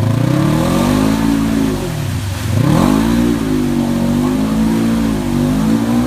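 Polaris 900 engine revved hard while stuck in a mud bog. The pitch climbs, drops about two seconds in, climbs again and is held high with small dips.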